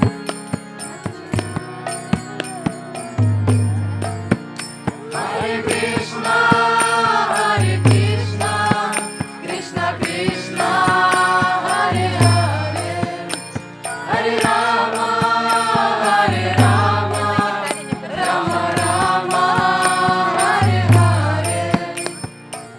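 Kirtan: a group of voices chanting a mantra in repeated sung phrases over a steady rhythm of percussion clicks and deep recurring low notes. The singing becomes full about five seconds in.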